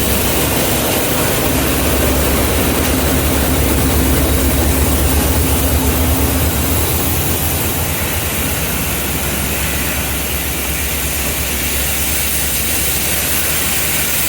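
A train running close by: a heavy, steady low engine rumble with a hum held through the first half.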